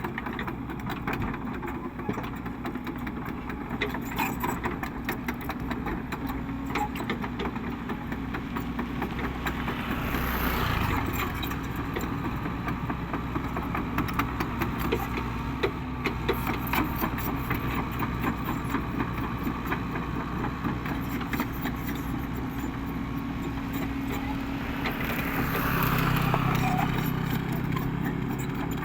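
Cat 307E2 mini excavator's diesel engine running steadily, with frequent light clicks and rattles. It swells louder twice, about ten seconds in and again near the end, as if working under load.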